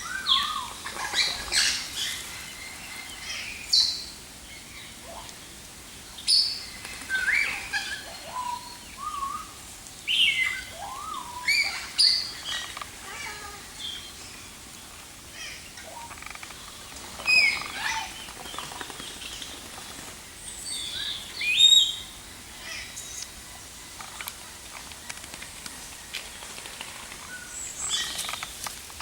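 Several birds chirping and calling: short whistled notes, many sliding up or down in pitch, coming irregularly in quick clusters with short lulls between them.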